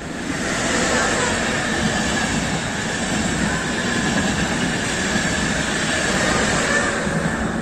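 A Frecciabianca passenger train, an E.464 electric locomotive with Frecciabianca coaches, passing close by. Its coaches roll past in a loud, steady rumble and rush, with a faint high whine running through it.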